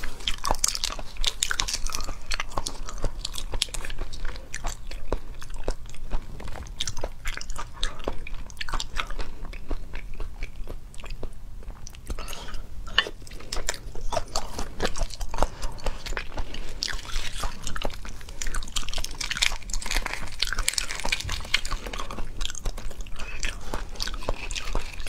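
Close-miked chewing and biting of raw red shrimp, wet and crackly, with many small sharp clicks. At times the shells are pulled apart by hand.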